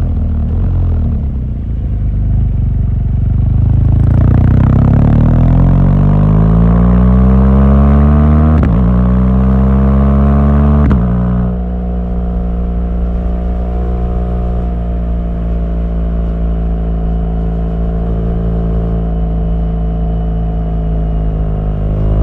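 BMW R1200GS boxer-twin engine accelerating hard, its pitch climbing with a gear change about 9 s in. About 11 s in the revs drop suddenly and the engine runs at steady revs.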